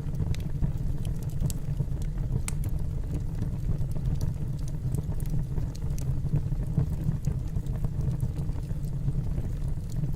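Wood logs burning in a fireplace: a steady low rumble of the fire with scattered sharp crackles and pops.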